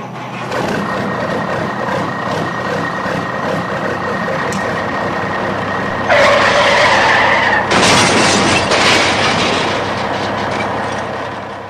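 Toy truck running after being let go, a continuous mechanical noise with a faint steady whine, growing louder and rougher for about three seconds past the middle.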